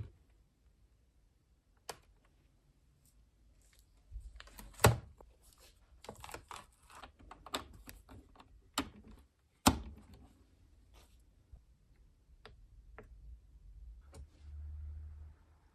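Lenovo G570 laptop being handled: irregular plastic clicks and taps, with two sharper knocks about five and ten seconds in and a brief low rumble near the end.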